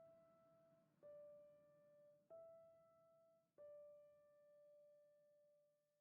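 Faint background music: slow piano notes, one sustained note struck about every second and a bit, each ringing and fading before the next.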